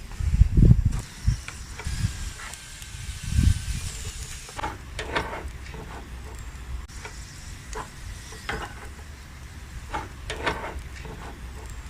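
Chicken sizzling over an open fire: a steady hiss with scattered crackles and pops, and a few low thumps, the loudest in the first second.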